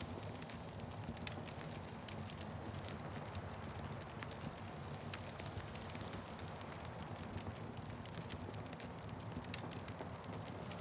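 Wood fire crackling in a fireplace: many small, sharp, irregular pops over a steady low rushing rumble.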